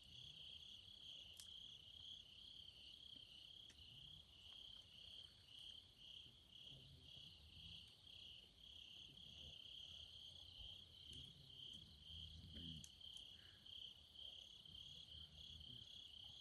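Crickets chirping faintly in a steady, even pulsing trill, about three pulses a second, with a few faint clicks now and then.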